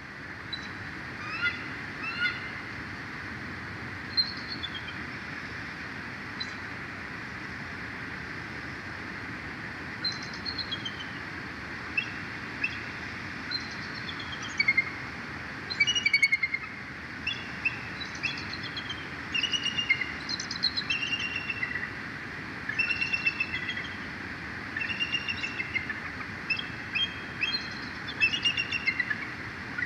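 Birds calling in short, high chirps and quick runs of chirps, a few at first and busier through the second half, over a steady background hiss.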